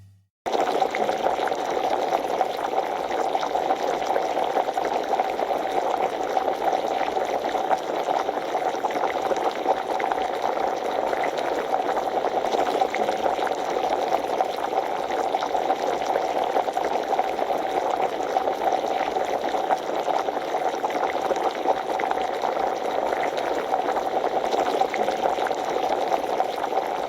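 Chicken adobo bubbling in the pan as it cooks: a steady, dense crackle of bubbles.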